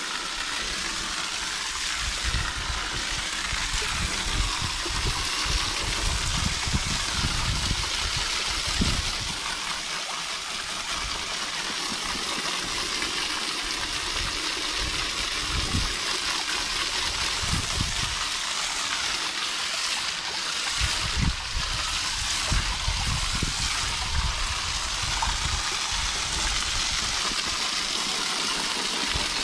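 Water spraying from a garden hose nozzle onto an AC unit's condenser coil: a steady hiss of spray, with low rumbles coming and going underneath.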